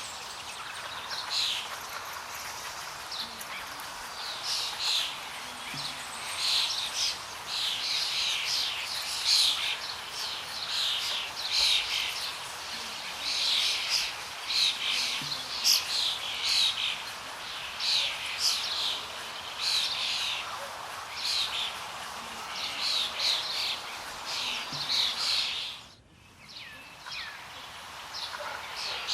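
Birds chirping over and over in quick, high calls above a steady background hiss of outdoor ambience. Everything drops out abruptly for about a second near the end, then the background returns.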